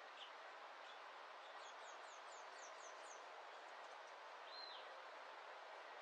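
Faint birdsong over a quiet, steady outdoor hiss: a quick run of about six high, falling chirps about two seconds in, a few scattered single chirps, and one arched whistled note later on.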